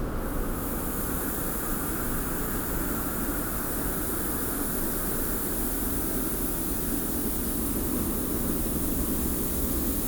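Steady wind with a fine hiss of blowing sand, an even rush strongest at the low end.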